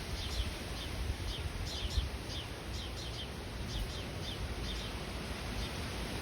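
A small songbird calling over and over with short, high, falling chirps, about two a second, over a low rumble.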